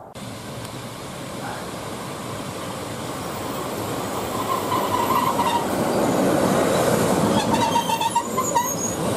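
A train approaching, its running noise growing steadily louder, with short high squeals about halfway through and again near the end.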